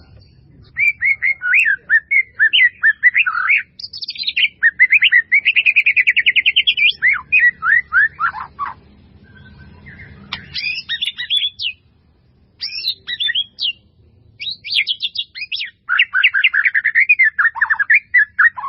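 A bird singing: several phrases of rapid, sweeping chirps, one with a fast trill partway through, separated by short pauses.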